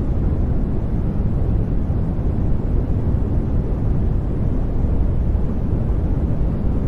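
Steady generated noise, billed as white noise but weighted toward the low end: an even, deep rush with little hiss, unchanging throughout.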